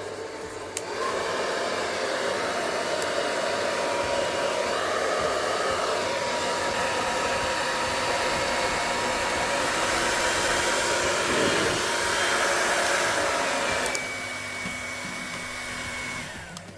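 Her own full-size conventional hair dryer running: a steady rush of air with a faint whine. It gets louder about a second in, drops a step near the end, and then switches off.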